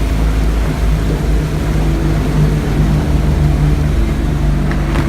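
Jeep engine running steadily as the vehicle drives, a continuous low drone.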